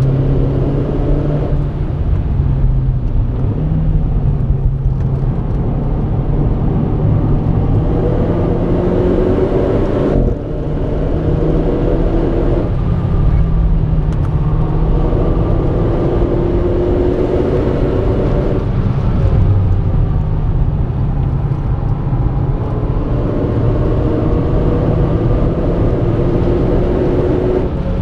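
Renault Clio RS 220's turbocharged four-cylinder engine under hard acceleration on track, its pitch climbing in several long pulls. The note breaks off sharply about ten seconds in as the throttle comes off, then climbs again.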